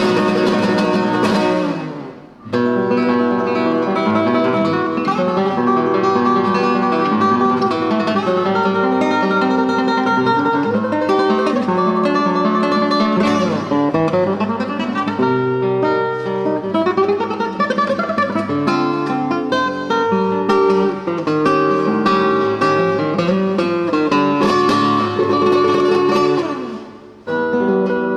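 Solo acoustic guitar playing a piece of plucked melody and chords, with brief breaks between phrases about two seconds in and again near the end.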